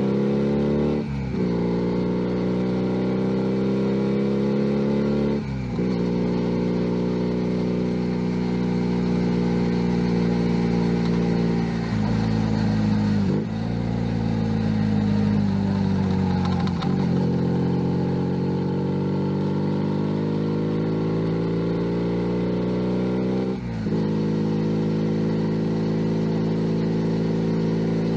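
A Junak M11 Cafe's 125cc single-cylinder four-stroke engine running under way. Its pitch climbs steadily through each gear, with short dips where gears are shifted, about a second, five seconds and near twenty-four seconds in. In the middle the pitch sinks for a few seconds as the bike slows, then climbs again.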